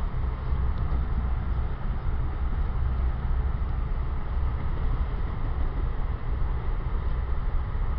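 Steady low rumble inside a moving passenger rail car, an ex-Metroliner cab car running at speed with its wheels rolling on the rails.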